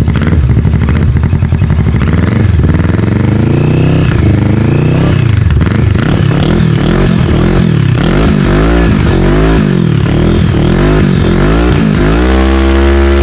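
Kawasaki Vulcan S motorcycle's 649 cc parallel-twin engine revved through its exhaust. The throttle is blipped over and over, the engine note rising and falling about once a second, and near the end it settles back to a steady idle.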